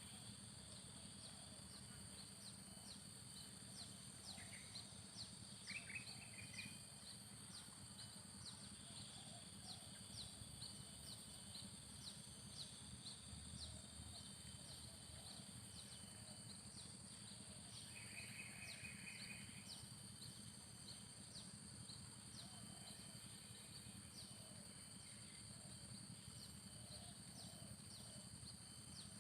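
Faint insect chirring, steady and high, with a run of short ticks about twice a second. A bird gives brief trills twice, about six seconds in and again around the middle.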